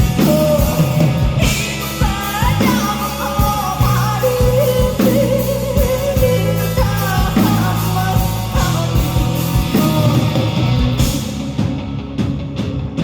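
Live rock band performance: a female vocal singing with sliding notes over electric guitar, bass and drums.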